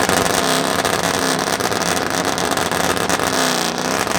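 Modified vehicle's loud aftermarket exhaust being revved hard for the crowd, the engine pitch rising and falling, with a dense rattle of sharp crackles through it.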